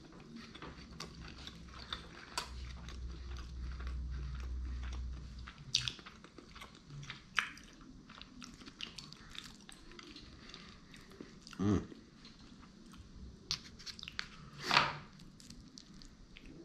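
Close-up chewing of sushi rolls, with many small crisp crunches and wet mouth sounds. Two louder mouth noises come in the second half.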